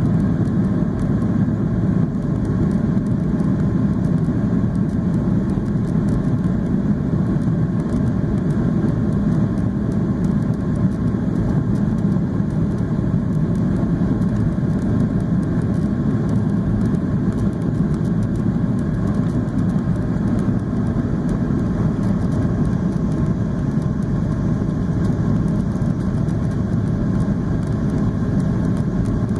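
Steady low drone of cabin noise inside a Boeing 737-800: engine and airflow noise, even and unchanging.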